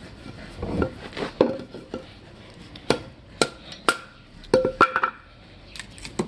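Batoning a knife through a mesquite stick: a series of sharp wooden knocks as the baton strikes the spine of the blade, coming faster from about three seconds in as the hard wood is split.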